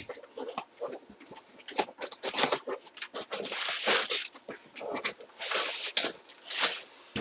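Packaging of a trading-product box being handled and torn open: a run of short rustling, tearing noises.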